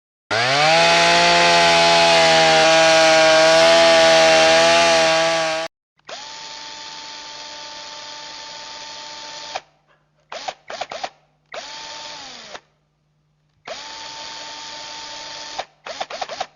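Electric power tool motors. A loud motor spins up quickly and runs steadily for about five seconds, then cuts off. After a short gap a quieter motor with a high whine runs for a few seconds, then comes in several short trigger bursts, some winding down as they stop.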